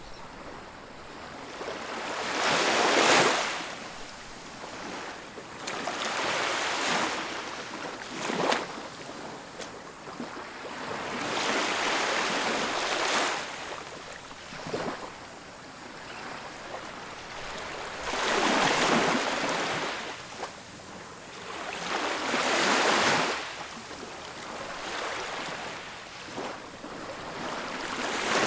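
Ocean surf: waves breaking and washing up the beach, the rush swelling and fading with a new wave every few seconds. The loudest break comes about three seconds in.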